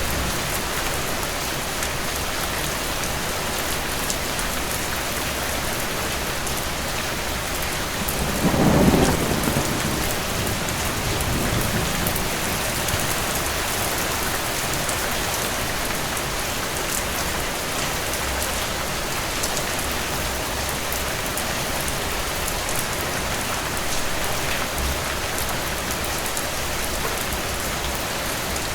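Steady rain falling, with one roll of distant thunder rumbling low about eight to ten seconds in.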